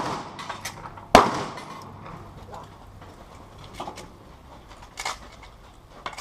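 A single loud gunshot a little over a second in, ringing out in a decaying tail, with the tail of the previous shot fading at the start. Fainter knocks follow about four and five seconds in.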